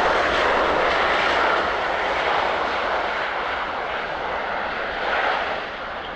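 Bombardier CRJ-705 regional jet's turbofan engines, a steady roar as it passes on landing, slowly fading.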